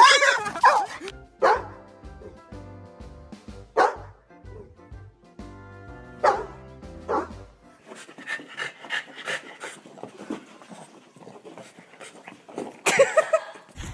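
A dog barking in single, separate barks a few seconds apart, the loudest near the end, over background music.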